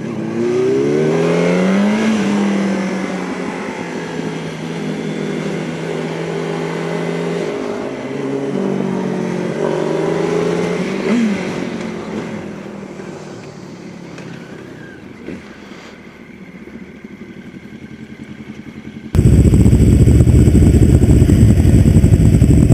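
Motorcycle engine accelerating, its pitch rising in steps through gear changes, then holding steady and gradually dropping away. About nineteen seconds in, a sudden much louder, rough rumbling noise takes over.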